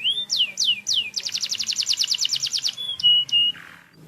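Domestic canary singing: a run of down-sweeping whistled notes, then a fast rolling trill of about a dozen notes a second, ending in two short steady notes.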